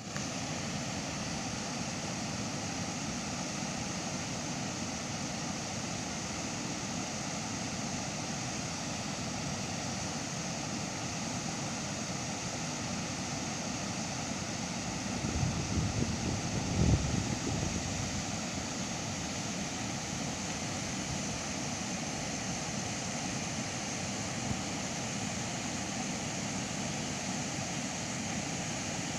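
Steady rushing roar of a waterfall, with a brief burst of low rumbling on the microphone about halfway through.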